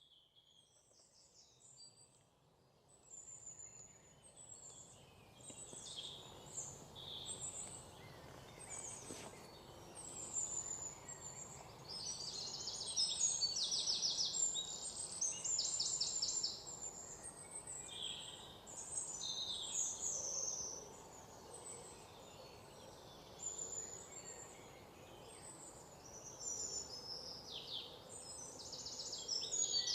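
Many birds chirping and calling at once, with short chirps and rapid trills, over a steady low background noise. The sound fades in over the first several seconds and stays busy throughout.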